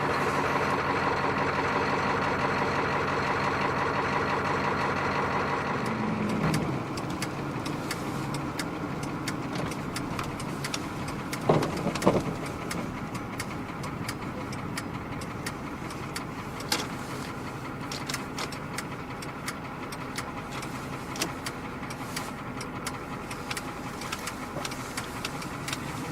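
Old pickup truck engine running steadily on the move, a truck that is running on a bad cylinder. Its sound drops a step about six and a half seconds in, with two brief louder sounds near the middle and scattered clicks after.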